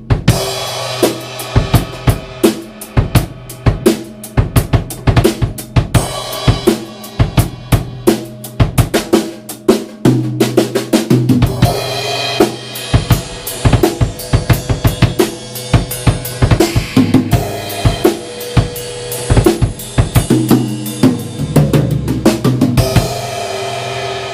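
Drum kit played with bamboo multi-rods (Vater SplashSticks) in a straight-ahead groove: bass drum, snare and cymbals in a steady rhythm, with a few tom fills. The groove stops sharply at the end.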